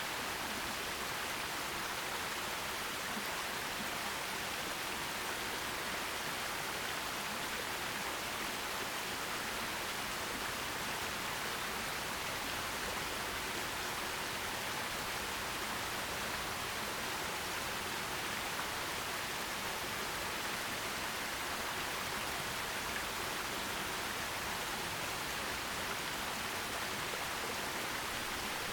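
Forest stream flowing over rocks: a steady, even rush of water with no breaks or changes.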